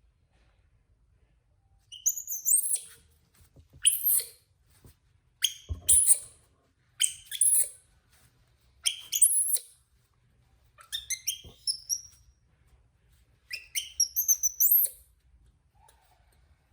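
Baby monkey giving high-pitched, bird-like chirping squeals in about seven short bursts, starting about two seconds in.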